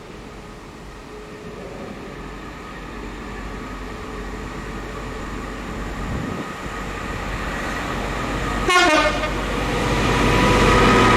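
Diesel train approaching and growing steadily louder, with one short horn blast that drops in pitch about nine seconds in, then running past loudly near the end.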